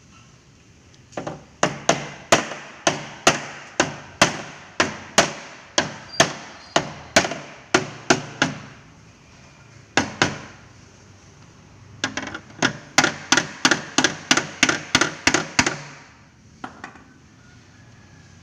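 Hammer tapping repeatedly on a Vespa's dented steel body panel to beat it out: about two blows a second, a lone blow after a short pause, then a quicker run of about three a second and one last tap near the end.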